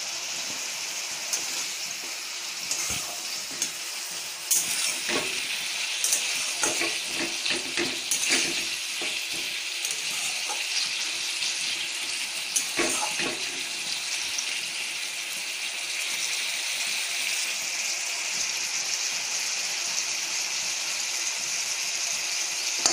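Potato and raw papaya pieces sizzling in oil with spice paste in a kadai, the masala frying down until the oil separates. A spatula scrapes and taps against the pan, mostly in the first half.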